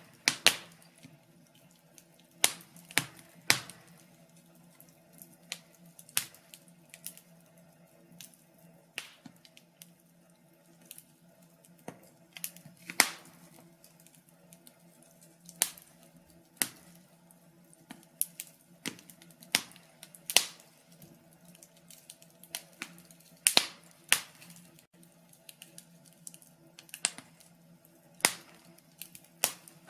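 Wood fire in a fireplace crackling: irregular sharp pops and snaps, roughly one a second, a few much louder than the rest, over a faint steady hum.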